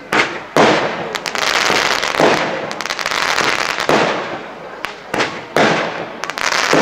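Firework display: about seven loud shell bursts in quick succession, each followed by a trailing rumble, with dense crackling between them.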